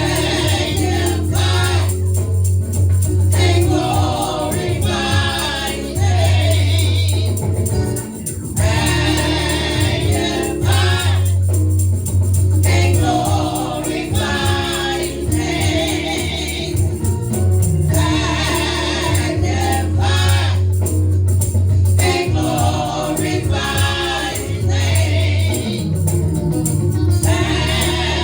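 Gospel praise team singing with a live band: several voices in phrases over a steady bass line, with a tambourine.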